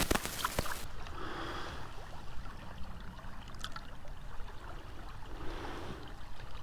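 River water flowing and gurgling softly, with a low rumble underneath. About a second in, a loud crackling hiss stops abruptly and the sound drops to the quieter water.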